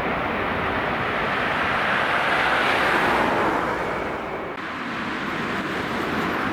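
Jet airliner passing, its engine roar swelling to a peak about three seconds in and then fading, with an abrupt drop about four and a half seconds in.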